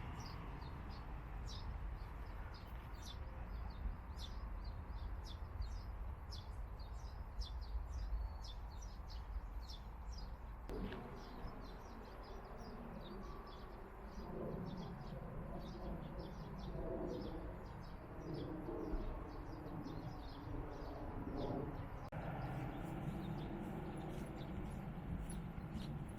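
Small birds chirping over and over in short, high notes, over a steady low background rumble.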